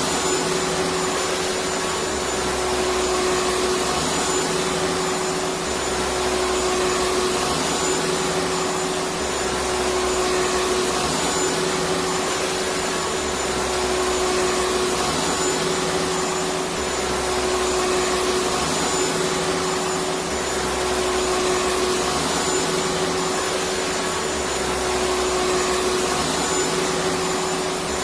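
Electric vacuum cleaner running continuously with a steady motor whine. Its low rumble swells and eases gently every two to three seconds.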